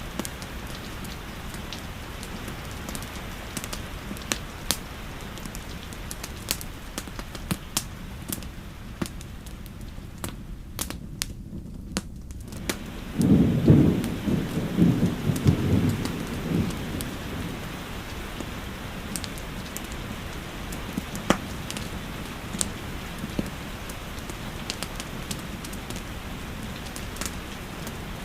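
Steady rain with sharp crackles and pops from a wood fire throughout. About halfway through, the rain briefly drops away, then a low rumble of thunder rolls in for a few seconds and is the loudest sound.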